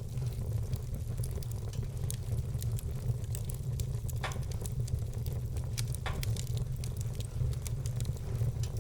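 Wood-burning fire crackling: many small, sharp pops and snaps over a steady low rumble. Louder pops stand out about four and six seconds in.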